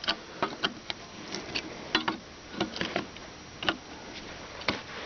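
Small metal parts clicking and tapping irregularly, about a dozen sharp ticks, as a valve keeper is worked out of the retainer of a valve spring held compressed by a homemade clamp-type valve spring compressor.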